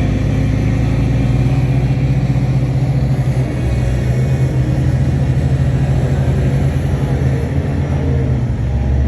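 Heavy earthmoving machine's diesel engine running steadily under load, a deep loud drone, with a brief dip about three and a half seconds in.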